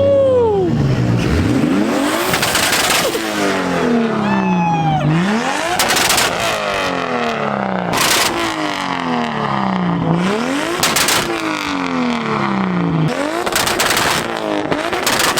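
Tuned sports-car engine revved hard over and over, climbing quickly and dropping off every two to three seconds. It is punctuated by loud sharp bangs from the exhaust, the pops of a two-step launch limiter or anti-lag.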